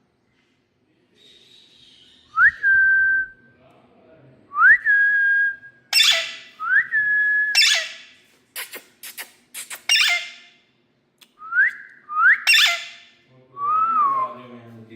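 Indian ringneck parakeet whistling and squawking: short whistles that swoop up and hold a steady note, alternating with loud harsh squawks. A quick run of clicks comes in the middle, and a lower whistle dips near the end.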